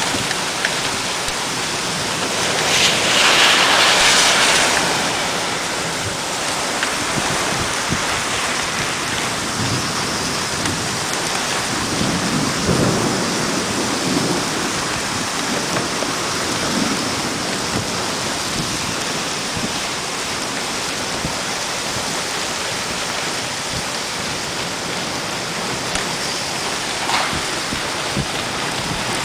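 Heavy rain pouring steadily, with a louder surge about three seconds in. A low rumble of thunder rolls in about twelve seconds in and fades over several seconds.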